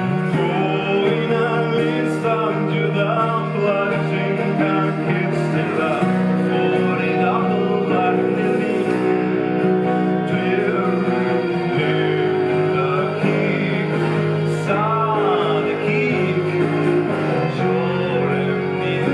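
Live ensemble music: a held low drone under a melodic line that slides up and down in pitch.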